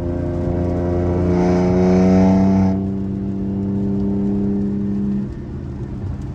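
Infiniti Q50's VR30 twin-turbo V6 through a straight-piped exhaust, pulling under heavy throttle with an even, slowly rising note. About three seconds in the throttle comes off: the note drops in level and settles to a steadier drone.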